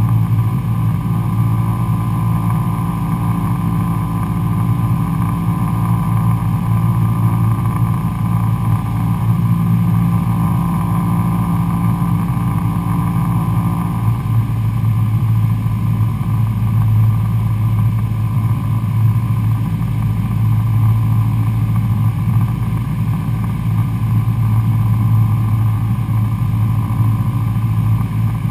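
Cabin drone of a Cessna 172SP Skyhawk's four-cylinder Lycoming engine and propeller, running steadily, with a change in its tone about halfway through.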